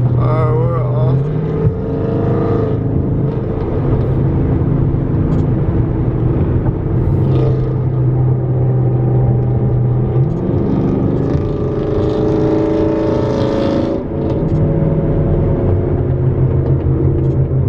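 Dodge Charger Scat Pack's 6.4-litre (392) HEMI V8 droning steadily while driving. Its pitch steps up about a second in, climbs again around ten seconds as it pulls, and dips briefly near fourteen seconds.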